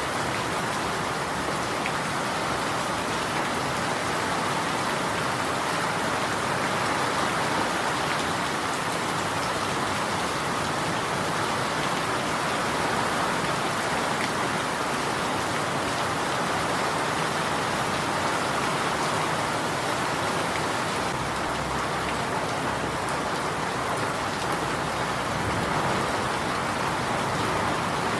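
Steady rainfall, an even wash of rain that neither builds nor eases.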